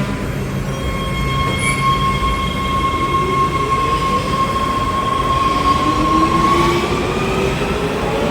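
Metro train's electric traction motors whining as the train pulls away and gathers speed: a steady high whine, with lower whines rising in pitch from about three seconds in and the high one starting to climb near the end, over the rumble of the train.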